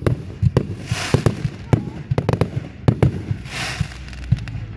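Fireworks going off: a rapid, irregular string of sharp bangs, with two short bursts of hissing crackle, about a second in and again a little past halfway.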